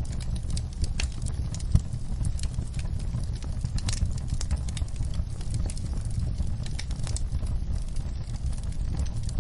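Wood fire in a fireplace crackling: irregular pops and snaps over a steady low rumble, with one sharper pop a little under two seconds in.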